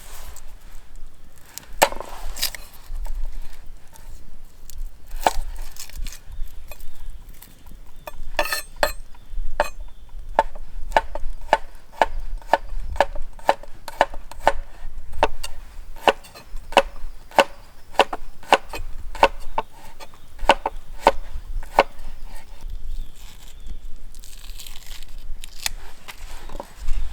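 Knife chopping on a wooden cutting board: scattered knocks at first, then a steady run of sharp knocks about two a second through the middle, easing off near the end.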